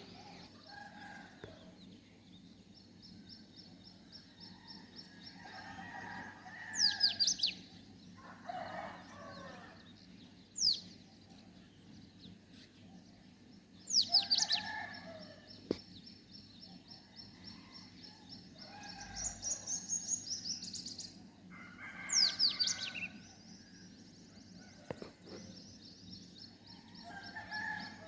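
Several birds calling: loud, sharp, steeply falling calls about four times, a few seconds apart, among fast high chirping trills and lower, coarser calls.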